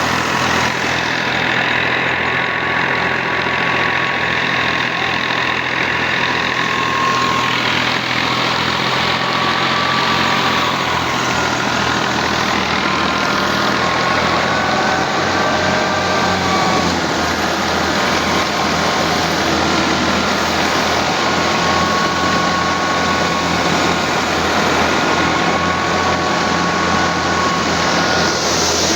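Al-Ghazi tractor's diesel engine running steadily while driving threshing machinery. A thin high whine wavers slightly in pitch above a fast, even engine pulse.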